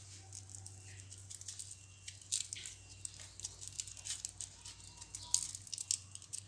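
Faint scattered clicks, crackles and rustling over a low steady hum.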